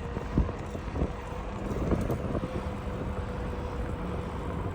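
Compressed-natural-gas Mack MRU garbage truck with a McNeilus rear loader running, a steady whine over the engine rumble, with several sharp knocks about half a second, one second and two seconds in.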